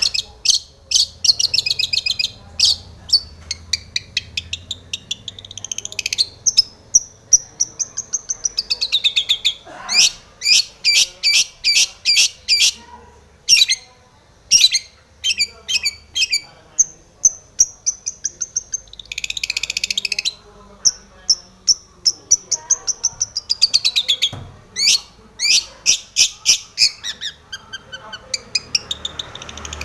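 Long-tailed shrike singing a fast, varied song: rapid runs of sharp chips and trills mixed with falling whistled slurs, with a harsh rasping burst about two-thirds of the way through.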